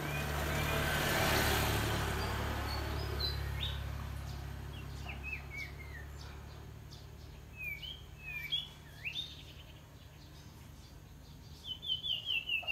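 A small songbird gives short, quick-sliding chirps, singly or in pairs, then a fast run of five or six chirps near the end. Under the first few seconds, a broad rushing noise swells and fades.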